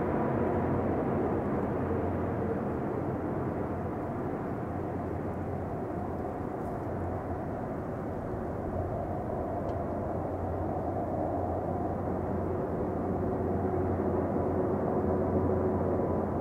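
Jet engines of an Airbus A330-300 airliner running steadily, with a faint steady whine, easing a little and then growing louder again near the end.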